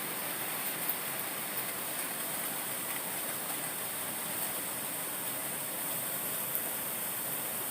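Heavy typhoon rain falling in a steady hiss, with faint scattered ticks of drops.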